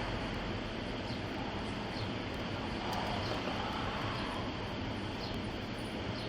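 Steady rushing noise of a vehicle in motion, heard from inside it.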